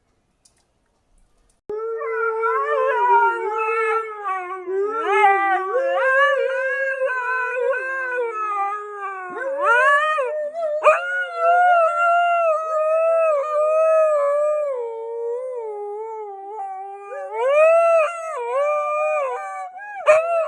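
A dog howling in long, drawn-out notes that waver and slide up and down in pitch, starting a couple of seconds in with only brief breaks for breath.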